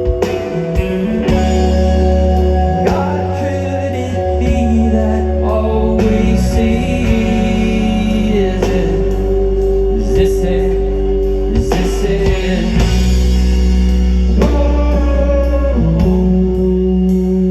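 Live rock band playing loud distorted electric guitars, bass and drums, with regular drum hits.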